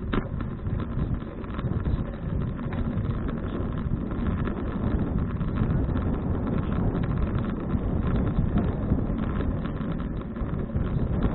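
Wind buffeting the microphone of an action camera on a moving bicycle: a steady, fluttering low rumble of rushing air with no clear tones.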